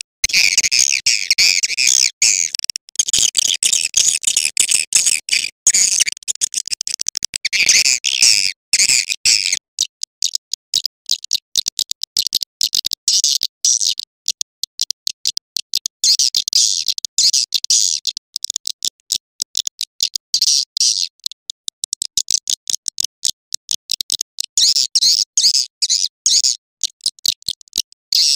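Swiftlet calls: rapid, dense, high twittering chirps and clicks, thick for the first ten seconds or so, thinner in the middle, then dense again near the end. A recorded swiftlet calling track of the kind played to lure edible-nest swiftlets into a swiftlet house.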